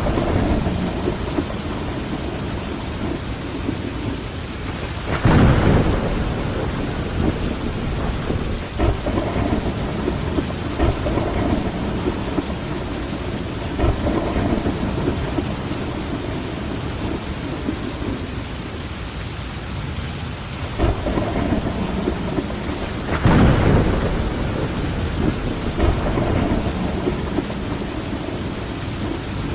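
Steady rain tapping on window glass, with a clap of thunder rumbling out about five seconds in and another about three-quarters of the way through.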